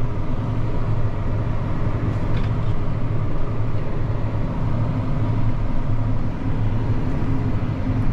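Tractor engine running steadily with a low, even drone, heard from inside the cab.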